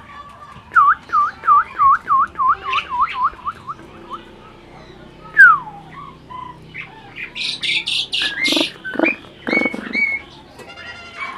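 Asian pied starling (jalak suren) calling: a quick run of about a dozen short looping whistles at about four a second, then one loud falling whistle. In the last few seconds come several harsh, rasping calls.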